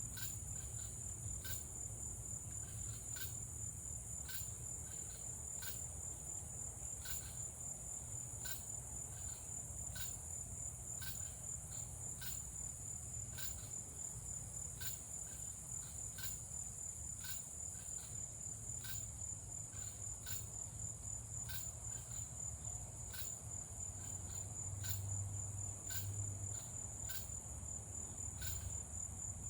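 Crickets trilling steadily at a high pitch, with a second insect chirping in a regular rhythm a little more than once a second. A low steady rumble sits underneath.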